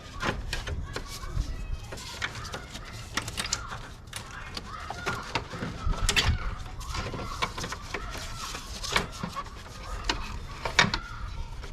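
Repeated clicks and knocks of plastic engine-bay trim and clips being pulled up and handled.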